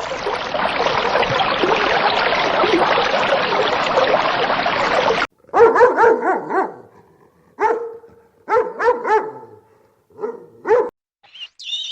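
A dense, noisy din for about five seconds that cuts off suddenly, then a dog barking in short bursts, several barks in quick clusters with pauses between.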